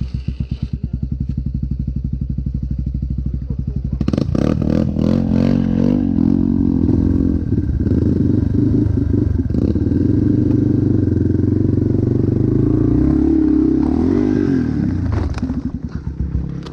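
Dirt bike engine ticking over with slow, even firing pulses, then revved hard with some clattering about four seconds in and held at high revs. The revs dip and rise again near the end before falling off.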